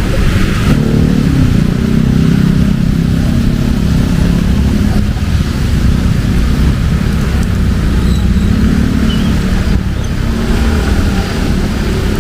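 Street traffic in heavy rain: motor vehicle engines drone close by over a steady hiss of rain. One engine is heard for the first few seconds, and another comes through about eight seconds in.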